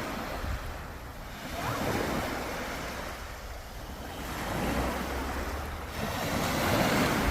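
Sea surf: waves breaking and washing up the shore, swelling in about three times.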